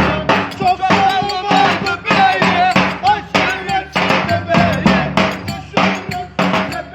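Live Turkish wedding band music: an ornamented melody instrument over a steady, driving drum beat.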